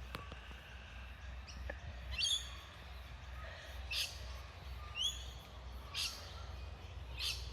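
Birds calling in short, sharp chirps every second or two, some of them quick rising notes, over a steady low hum.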